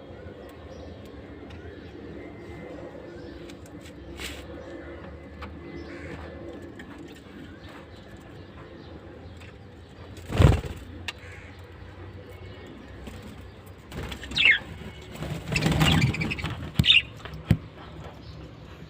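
Caged pet birds calling and chirping over a low steady background. There is one sharp loud knock about halfway through, and a burst of short, falling chirps near the end.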